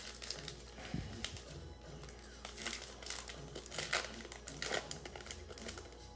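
A foil trading card pack wrapper crinkling and crackling as it is torn open and handled, in irregular bursts that are loudest in the middle. Faint background music plays throughout.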